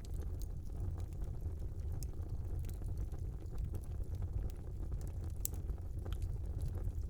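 Wood fire burning in a small fireplace: a steady low rumble with scattered sharp crackles and pops, one louder pop about five and a half seconds in.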